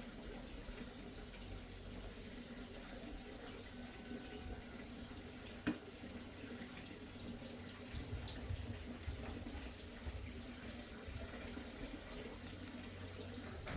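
Water running steadily, with a single sharp click about six seconds in.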